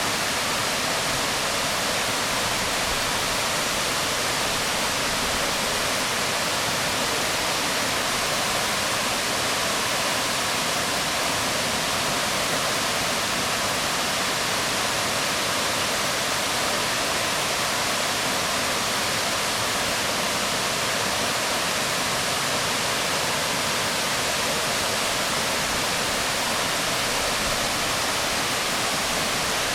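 Waterfall splashing onto rocks: a steady, unbroken rush of falling water.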